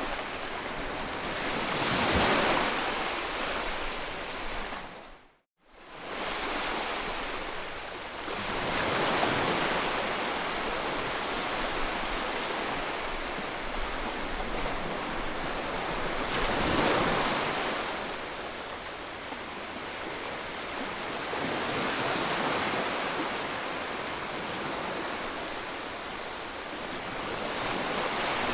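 Ocean waves breaking on a shore, the surf swelling and easing several times. A sudden brief gap of silence about five seconds in.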